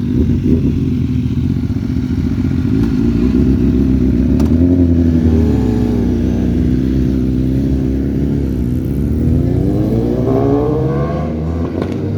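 Suzuki Hayabusa's inline-four engine through an aftermarket Akrapovič exhaust, running loud with a deep, steady note. Near the end it revs up in a long rise in pitch.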